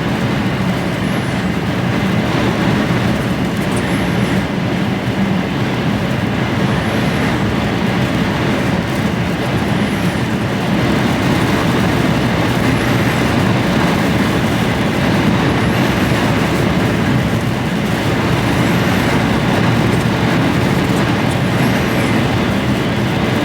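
Steady in-cab noise of an HGV container lorry on the move: the diesel engine's hum under continuous road and wind noise, with no break.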